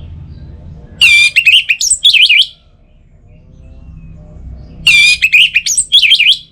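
Orange-headed thrush singing: two loud song phrases of quick notes sliding up and down, each about a second and a half long, a few seconds apart.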